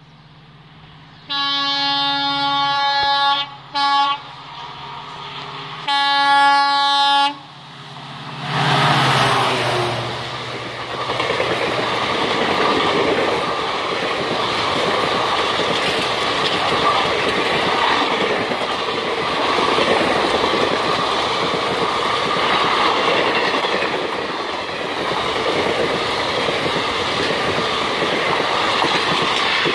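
WDP4D diesel locomotive's air horn sounds three times: a long blast, a very short toot, then another long blast. About eight seconds in the locomotive rushes past, followed by the steady rumble and clatter of the passenger coaches rolling by for the rest.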